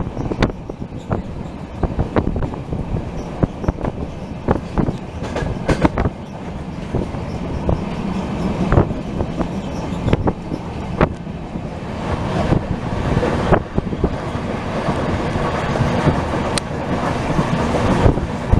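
Passenger train coach running along the track: a steady rumble of wheels on rail, broken by irregular sharp clicks as the wheels pass over rail joints. The running noise grows louder through the second half.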